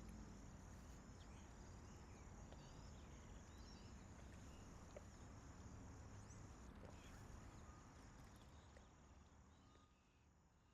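Faint outdoor nature ambience: a steady high insect drone like crickets, with scattered short bird chirps over a low rumble. It drops away about a second before the end.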